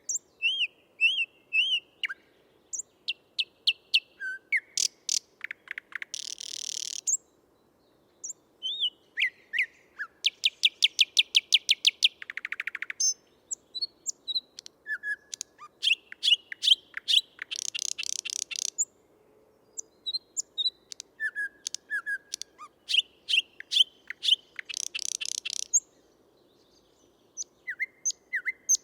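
Male thrush nightingale singing: three song phrases of varied whistled notes, rapid runs of sharp clicks and loud buzzy rattles, with short pauses between phrases.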